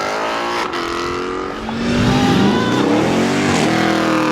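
A car engine revving hard as it pulls away, its pitch climbing and dropping sharply several times.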